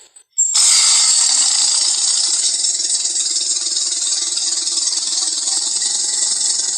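Giant-creature movie sound effect: a long, harsh hiss that starts suddenly about half a second in, holds steady for about six seconds, then stops.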